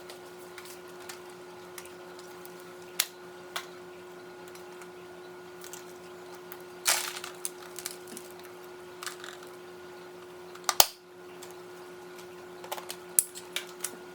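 Scattered light clicks and knocks, with a sharper knock near the end, over a steady low hum.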